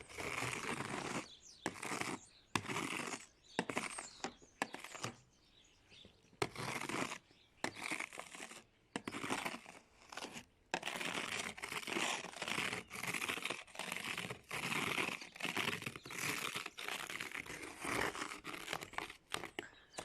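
Snow and icy crust being brushed and scraped off a car, in uneven scratchy strokes about once a second with short pauses between.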